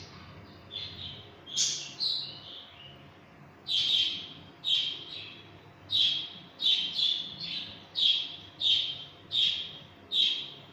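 A bird chirping over and over: short, sharp calls that fall in pitch. There are a few at first, then they come regularly, about one or two a second, from about four seconds in.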